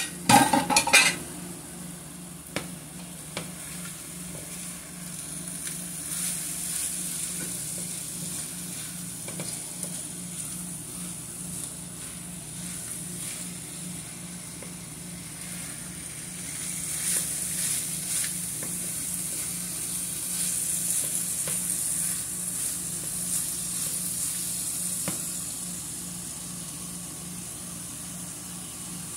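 Omena fish frying in tomato sauce in a frying pan, sizzling steadily, with a plastic spatula stirring and scraping through it. A brief clatter comes right at the start as the fish go into the pan. The sizzling and stirring get louder for several seconds past the middle.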